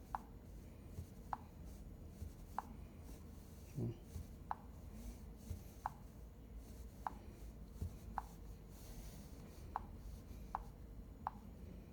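Faint, short clicks at uneven spacing, about one a second, over a low steady background hum, with one soft thump about four seconds in.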